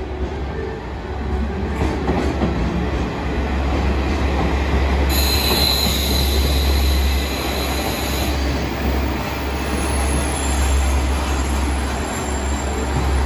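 Red diesel railcar moving past along the platform track, its engine rumbling low, with a high steady squeal coming in about five seconds in. A departing freight train's rolling noise fills the first seconds.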